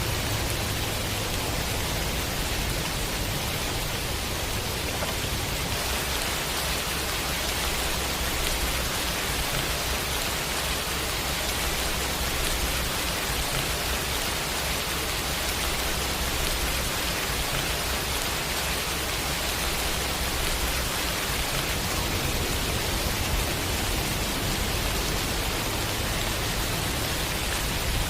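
Steady rain: an even, unbroken hiss with a low rumble underneath that shifts a couple of times.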